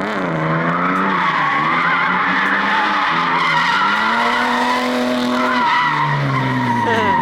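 BMW E36 on ISR Performance blast pipes, the engine revving up and down while the tyres squeal continuously.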